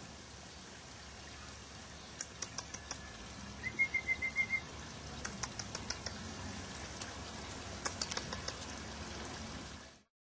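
A small bird's short, rapid chirping trill of about seven notes near four seconds in, over a faint steady outdoor hiss, with three brief clusters of light, high clicks.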